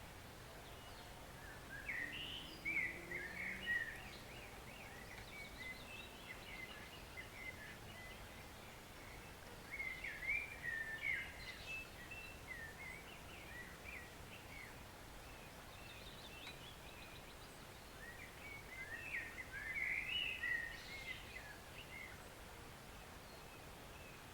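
A songbird sings three short bouts of quick, chattering song, each a few seconds long and spaced about eight seconds apart, over the steady soft rush of a forest stream.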